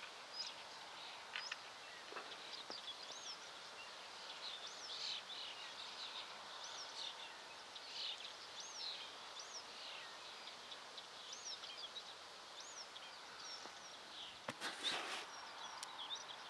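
Small birds chirping in quick, short notes throughout, over a faint background hiss. About three-quarters of the way through comes a brief rustling noise.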